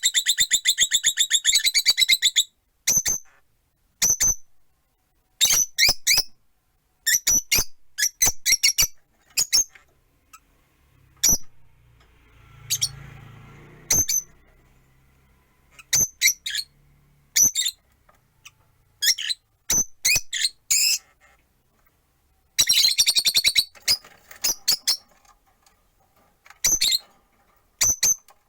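Rosy-faced lovebirds calling: shrill, high chirps, some single and some in rapid chattering runs at the start and again past twenty seconds, from several birds.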